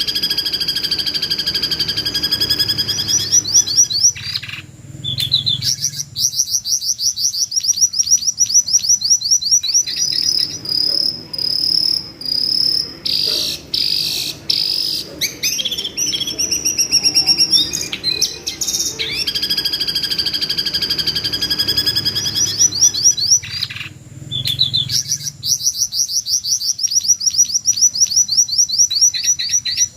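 Jongkangan bird screaming: long runs of rapid, high, evenly repeated notes broken by short pauses. The same sequence comes round again about two-thirds of the way through.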